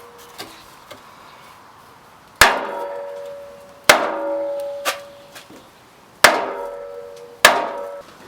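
Hammer blows on a truck's metal rear bumper, knocking out a dent: four loud, irregularly spaced strikes in the second half, each leaving the bumper ringing, with a few light taps between.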